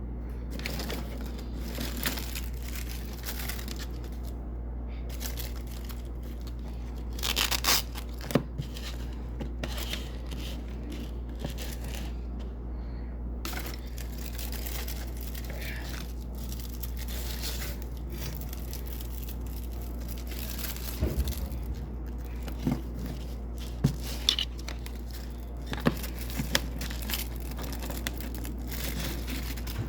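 Double-sided hook-and-loop (Velcro) strips being pulled off and pressed onto white hook tape: a crisp crackling, tearing sound in irregular strokes, with a louder rip about seven seconds in and several sharp crackles later on. A steady low hum runs underneath.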